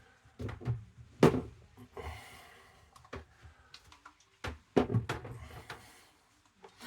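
Several short knocks and clunks of things being handled and set down on a hard surface, the loudest about a second in and two more close together near the five-second mark.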